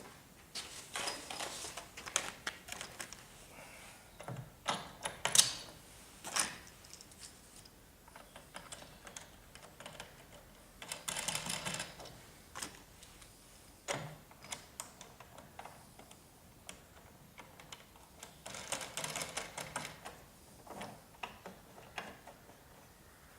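Small parts being handled and fitted by hand during router table assembly: irregular clicks, light knocks and short bursts of rattling and scraping of bolts, washers and plastic parts, with one sharper knock a little after five seconds.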